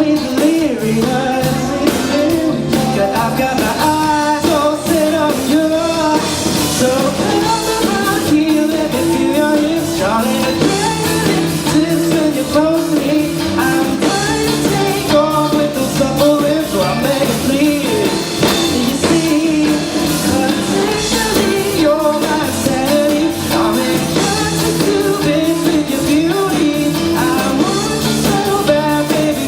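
A pop-rock band playing a song live, with a lead singer over electric guitar and drum kit, at a steady, loud level.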